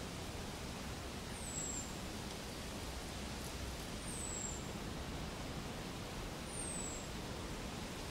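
Steady outdoor background hiss. Three times, about two and a half seconds apart, a bird gives a brief, thin, high falling call.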